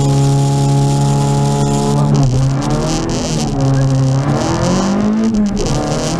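Renault Clio Sport rally car's four-cylinder engine heard from inside the cabin, held at steady high revs on the start line. About two seconds in the car launches: the note dips under load, then climbs, with a gear change near the end.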